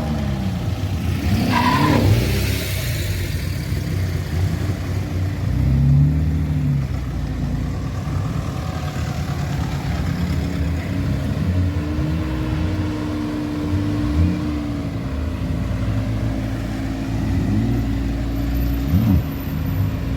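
BMW M5 F10's twin-turbo V8 through an Akrapovic exhaust, revving and accelerating, its pitch rising and falling; a sharp rising rev comes about two seconds in.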